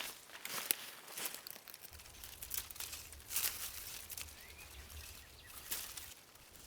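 Dry fallen leaves crunching and rustling in irregular crackles, about one every half second to second, with a low rumble from about two seconds in.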